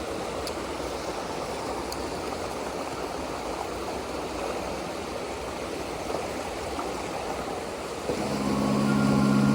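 Shallow mountain stream water rushing steadily. Background music fades in near the end.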